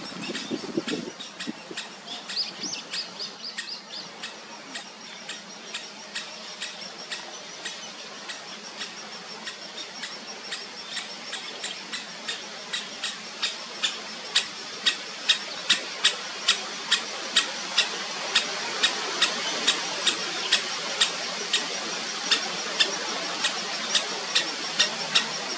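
A bird repeating a sharp, high call over and over, faint and irregular at first, then about twice a second and louder in the second half.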